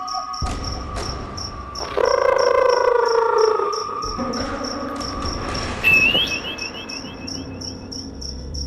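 Eerie night soundtrack of crickets chirping steadily. About two seconds in comes a long, falling wail. Near the end a high whistle breaks into a quick run of rising trills.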